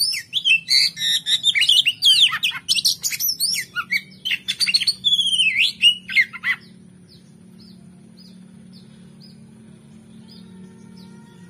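Oriental magpie-robin (kacer) singing a rapid, varied song of loud whistles, trills and chirps, which cuts off abruptly about two-thirds of the way through. After that, only faint short chirps about twice a second over a low steady hum.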